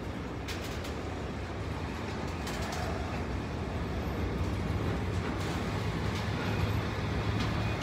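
Freight train of tank wagons rolling past on the rails: a steady rumble of wheels on track, with a few sharp clicks as wheels cross rail joints.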